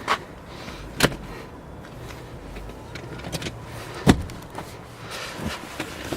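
A few sharp clicks and knocks from the car's rear-seat fittings being handled, with the loudest knock about four seconds in.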